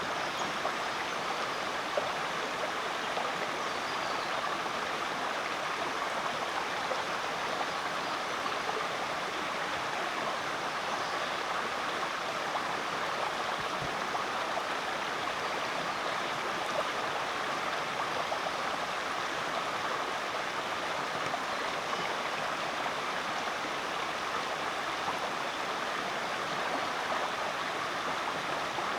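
Creek water running steadily over rocks, a constant rush with small splashes and gurgles.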